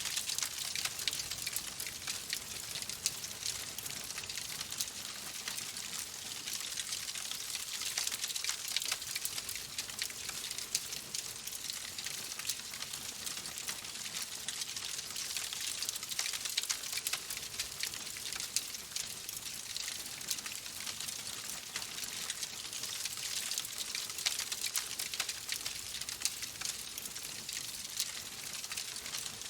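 Wood fire crackling steadily in a fireplace: a dense run of small sharp pops and snaps over a constant hiss.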